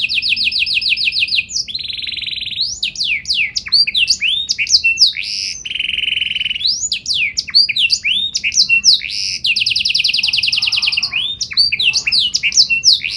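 Domestic canary singing a long continuous song: fast trills and buzzing rolls alternating with repeated sweeping notes, with a long rolling trill about two-thirds of the way through.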